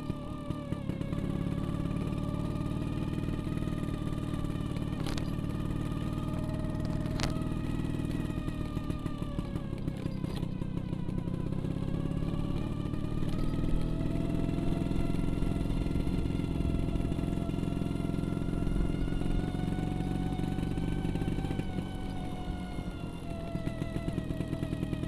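Vespa scooter engine running while riding, its pitch dipping about ten seconds in and climbing again a few seconds later as the speed changes.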